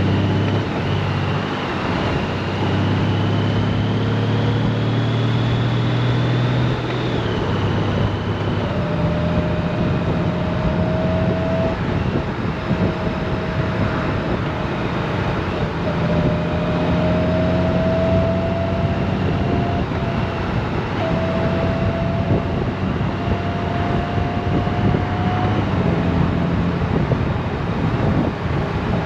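Honda Gold Wing motorcycle on the move: steady engine running under wind and road noise, with a thin whine that climbs slowly and drops back several times.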